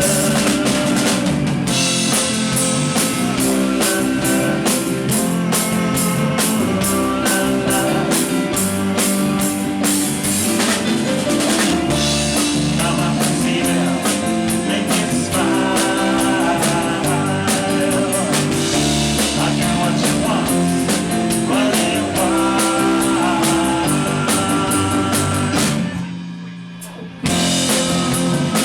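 Live rock band playing an instrumental passage: a drum kit keeps a steady beat under guitar, with no singing. Near the end the band drops out for about a second, then comes back in together.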